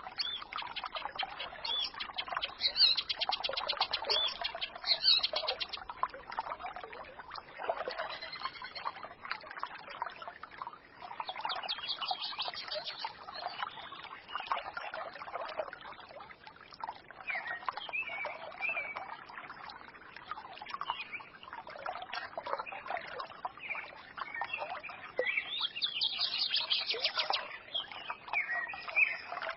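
Forest stream trickling and babbling steadily, with small songbirds chirping and twittering over it in several short spells.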